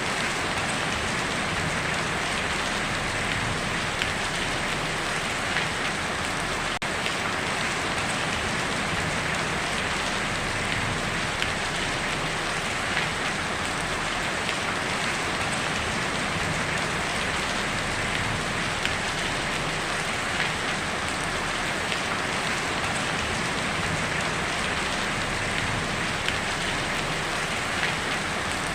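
Heavy rain drumming steadily on a tin roof, a dense even patter with scattered sharper drop hits.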